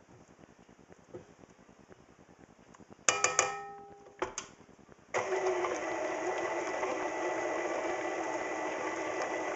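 A few sharp metallic clinks that ring briefly, about three seconds in, then an electric mixer switching on about five seconds in and running steadily with its beater, mixing cream cheese and ranch dressing.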